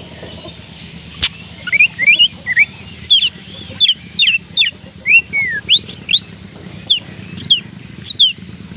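Oriental magpie robin singing: a quick run of clear whistled notes, many sliding up or down in pitch. There is one sharp click about a second in.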